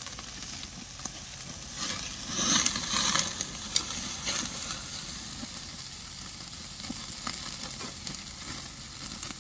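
Black-pork belly sizzling on a grill over a wood fire, swelling louder for about a second and a half around two seconds in, with scattered sharp pops.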